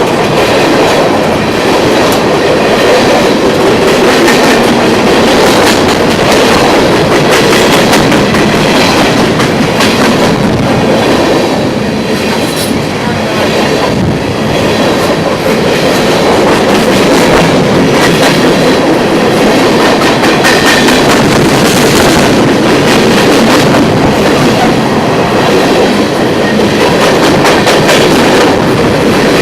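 A train passing at close range, loud and steady, its wheels clattering over the rails with many quick clicks. It eases a little about halfway, then builds again.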